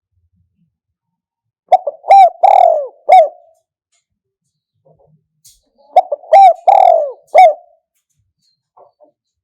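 Spotted dove cooing: two phrases of about four notes each, about four seconds apart, each with a longer, falling note in the middle. It is a recorded decoy call for luring wild spotted doves.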